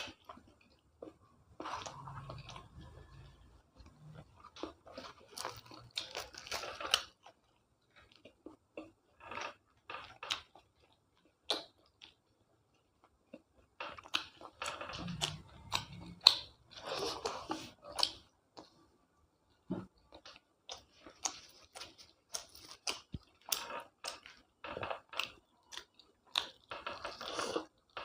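A person eating close to the microphone: chewing, biting and crunching in bouts, with short clicks and smacks of the mouth and pauses between mouthfuls.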